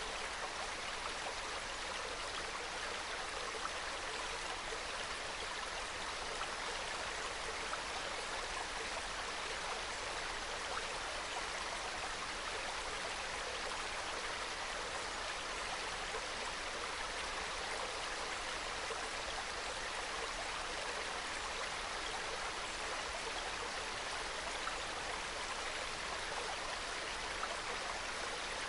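Small valley stream trickling and babbling over rocks, a steady soft flow of water.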